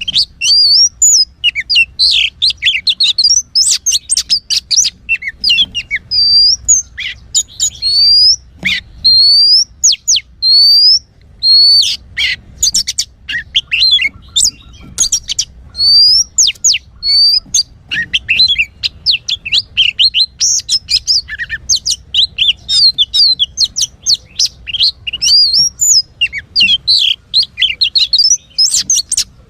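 Oriental magpie-robin singing: a loud, rapid, varied run of whistles, upslurred chirps and clicking notes, nearly without pause.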